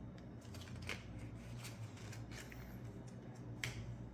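A sheet of letter-size paper being folded and creased by hand into a paper airplane's stabilizer: a handful of short, crisp crackles of the paper, over a steady low hum.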